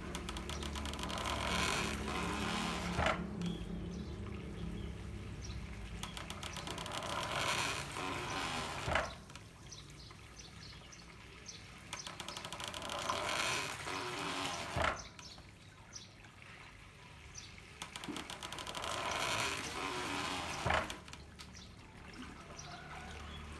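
Handmade water-powered corn mill working in a steady cycle: water gushes and swells for a couple of seconds, then a sharp knock lands. The cycle repeats about every six seconds, with four knocks.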